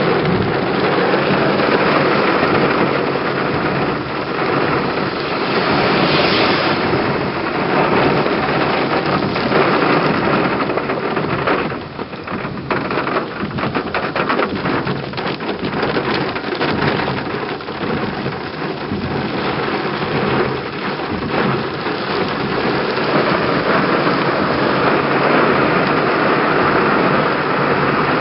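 Heavy thunderstorm rain pouring down steadily. A stretch in the middle is thick with separate drops striking a surface.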